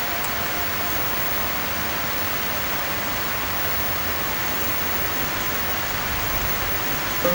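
Steady, even rushing noise with no rhythm or pitch, keeping the same level throughout.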